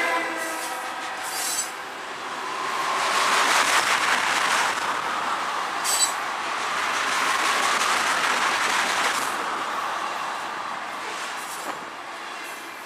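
Freight train tank cars rolling past close by: a continuous rumble of wheels on rail that swells and eases. About six seconds in there is a brief high wheel squeal.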